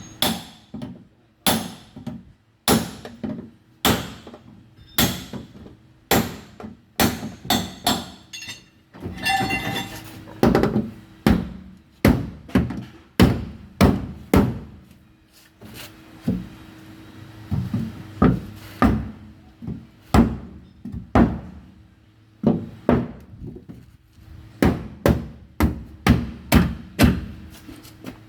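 Hammer blows on the dented sheet-metal rear fender of a Toyota Yaris, beating out the deepest part of the dent. A long series of separate strikes, about one a second, coming faster near the end, with a brief metallic ringing about nine seconds in.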